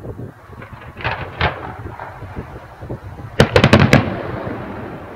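Fireworks display going off: a couple of bangs about a second in, then a rapid crackle of about half a dozen sharp cracks past the three-second mark, with rumbling between the blasts.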